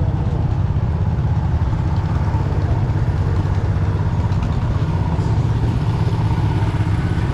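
An engine idling steadily, its low-pitched sound unbroken throughout.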